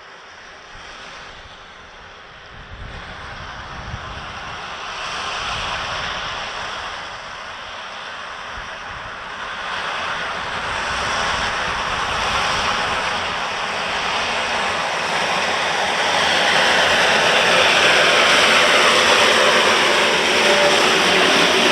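A train approaching, its running noise growing steadily louder over about twenty seconds, with a rumble early on giving way to a loud hiss near the end.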